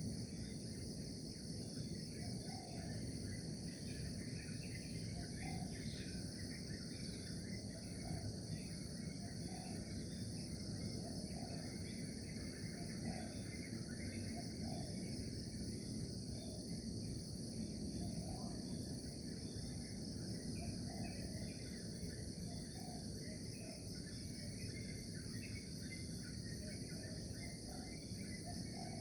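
Steady, shrill chorus of insects, crickets among them, with scattered short bird calls over a constant low background hiss.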